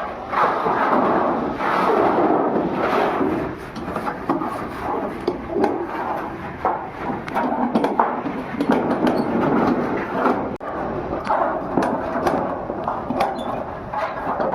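Metal workshop clatter: irregular knocks and clanks of sheet steel from old oil drums being worked, over a steady noisy din.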